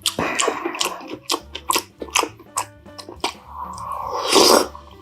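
Close-miked eating: chewing with crisp crunches and wet mouth clicks, likely on crispy chive pancake. There is a louder noisy burst about four seconds in.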